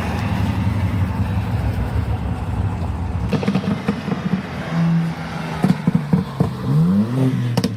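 Lexus V8 engines rumbling as two cars pull past at low speed. In the second half the engine note turns uneven, and near the end an engine revs up with a rising pitch.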